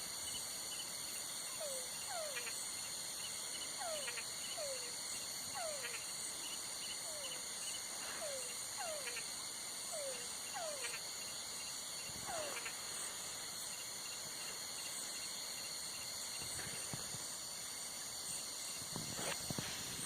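Night chorus of crickets, a steady high chirring, with a run of short downward-sliding animal calls repeating for the first twelve seconds or so and then stopping.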